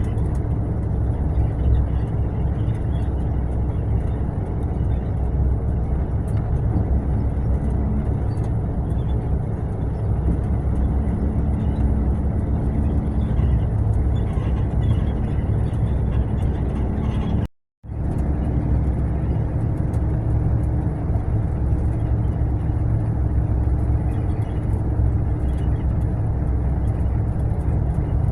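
Mercedes-Benz long-distance coach on the move: a steady low rumble of engine and road noise with a faint engine hum. The sound cuts out completely for a moment about two-thirds of the way through, then resumes unchanged.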